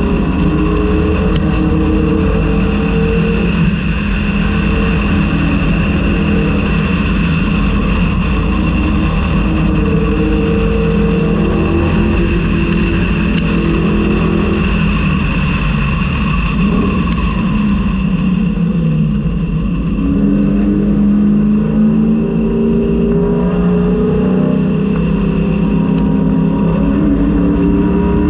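In-car sound of a 1999–2004 Ford Mustang race car's engine running hard at high revs, its pitch climbing slowly in long pulls, easing around the middle and pulling up again over the last several seconds, over steady wind and road noise.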